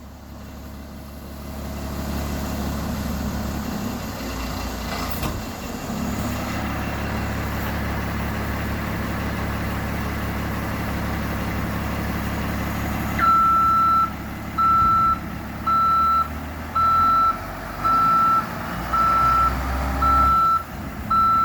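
Terex 2766 rock truck's diesel engine running steadily, getting louder about two seconds in. Past the halfway point its back-up alarm starts beeping about once a second as the truck is put in reverse.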